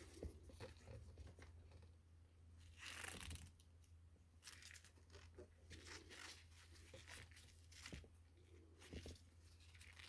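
Faint, scattered rustling, crinkling and small clicks of handling, loudest about three seconds in, over a low steady hum.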